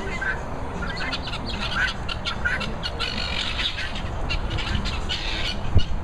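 Birds squawking and chirping in a quick run of short calls, over a low rumble of handling noise from a handheld camera on the move, with a single thump near the end.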